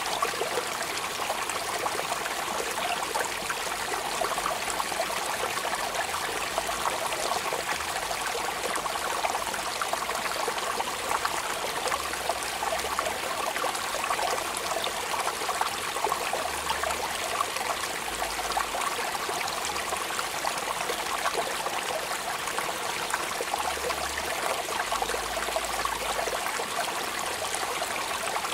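Steady rain falling, a dense, even patter of countless drops that holds at one level throughout.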